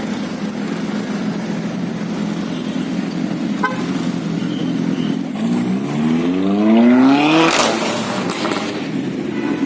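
A car engine running steadily, then accelerating hard, its note rising for about two seconds and loudest near the end of the rise.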